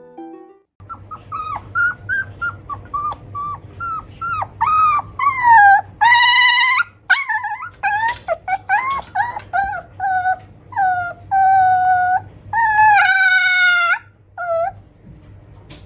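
Toy poodle puppy whining to its owner: a long run of short high-pitched whines, broken by a few longer drawn-out cries about six seconds in and again near the end.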